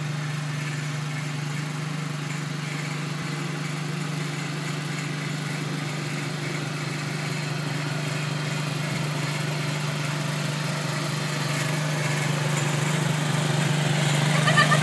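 Tractor engine running at a steady speed, getting louder toward the end.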